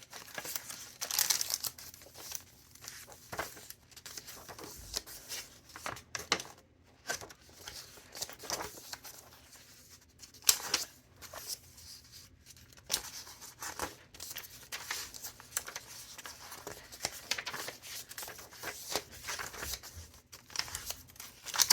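Paper pages of a thick handmade junk journal being turned one after another, rustling and crinkling in a quick, uneven run of page flips.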